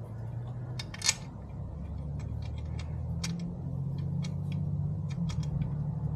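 Irregular small metal clicks and taps of bolts, tools and the shifter plate being handled during a fitting test, the sharpest about a second in, over a steady low hum.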